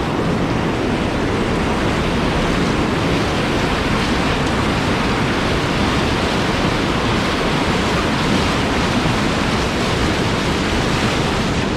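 Whitewater rushing through a river rapid where the water pours over a ledge into a hole, a steady loud rush with no breaks.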